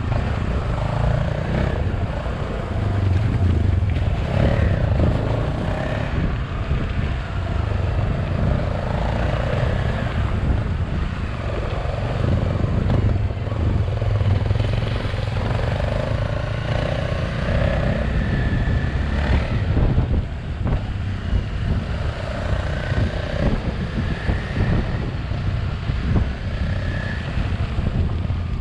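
Motorbike engine running under way, its drone rising and falling with the throttle, over a low rumble of wind and road noise.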